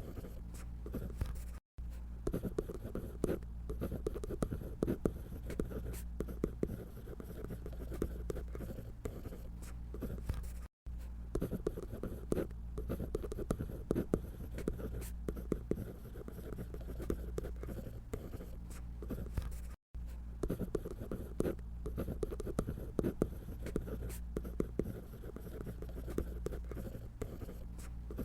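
Drawing on paper by hand: a steady run of short scratchy strokes, the sketching sound called 사각사각, over a low steady hum, broken by three very brief drops to silence.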